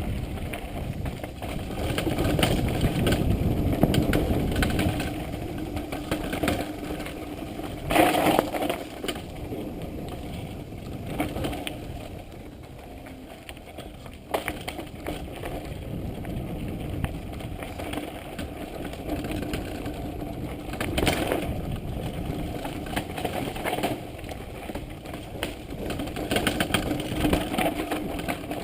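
Mountain bike riding down a rocky downhill trail: a continuous rough rattle of tyres and bike over rock and wind noise, swelling and easing with the terrain, with sharp knocks from hard hits about eight seconds in and again near twenty-one seconds.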